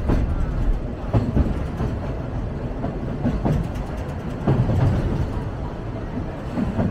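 Sagano Romantic Train running along the track: a steady low rumble broken by irregular clunks and knocks from the wheels.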